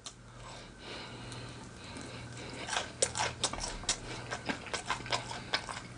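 A person chewing food close to the microphone, with irregular soft wet clicks starting a few seconds in, over a faint steady low hum.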